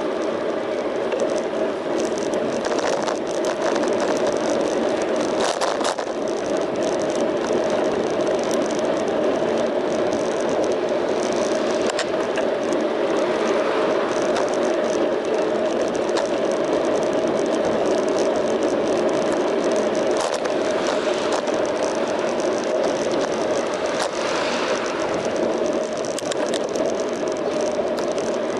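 Bicycle riding on the road, heard through an action camera mounted on the bike: steady rush of wind and tyre noise, with scattered short rattles and clicks from the bike.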